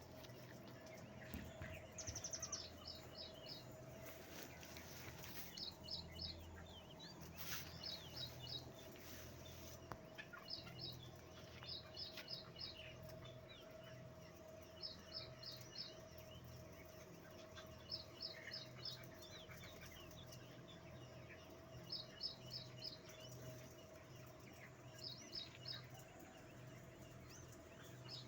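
Chickens peeping in quick runs of three or four high notes every couple of seconds, over a steady mechanical hum.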